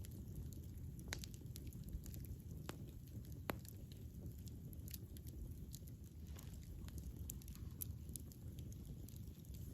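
Wood fire burning: a low rumble of flame with irregular crackles and sharp pops, the strongest about a second in and around two and a half to three and a half seconds in.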